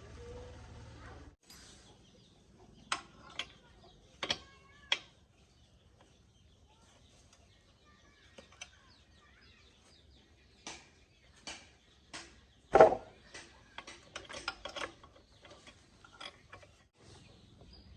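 Hand tools clicking and knocking on metal machine parts in scattered, irregular strikes, with one louder knock about 13 seconds in.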